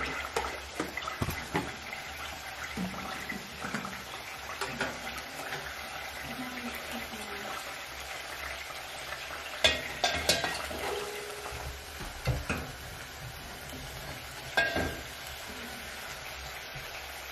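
Onions sautéing in a pot on the gas stove, a steady sizzle, with the clink and clatter of metal utensils and dishes on top; the loudest clatters come about ten seconds in and again near fifteen seconds.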